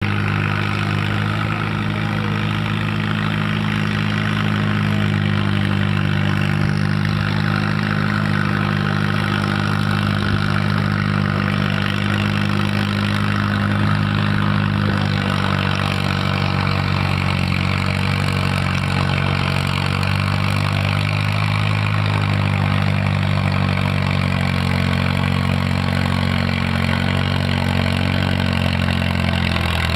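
Tractor engine running at a steady speed with a low, even drone.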